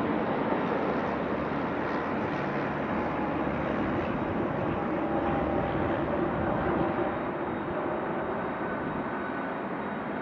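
UPS Boeing 757-24APF freighter's Rolls-Royce RB211 jet engines at takeoff thrust: a steady rumble that slowly fades as the aircraft moves away.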